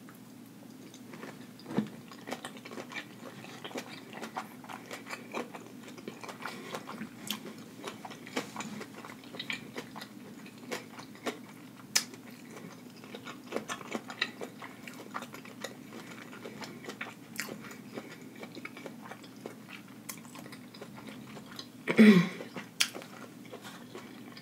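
Close-up wet chewing, biting and lip-smacking as sauce-covered seafood is eaten, full of small sticky clicks. A brief loud vocal sound near the end.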